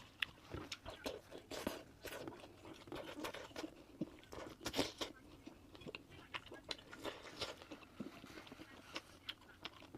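Close-miked eating: a person chewing and biting with wet smacking and many irregular little crunchy clicks.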